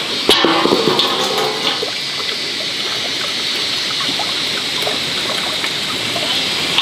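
Steady rushing water, with a few clinks and knocks in the first second.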